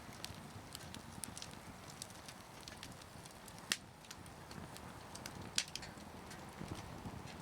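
Burning firewood crackling, with scattered small pops and two sharper, louder pops: one about halfway through and another about two seconds later.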